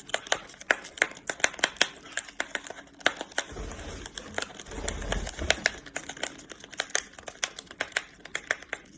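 A parrot picking and tearing at a paper tea packet with its beak: a fast, irregular run of small clicks and crinkles, with a low rumble of handling noise about halfway through.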